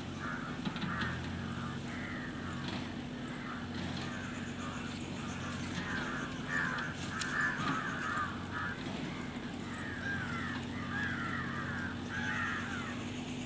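Birds calling over and over, many short calls overlapping, busiest about halfway through, over a steady low hum.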